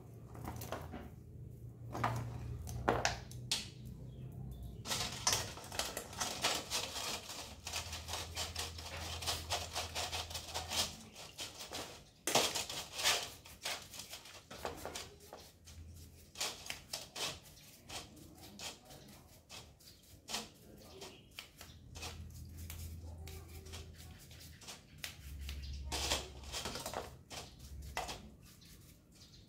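Clicking and knocking from hand work on bicycle parts, with a stretch of rapid clicking about five seconds in that lasts several seconds.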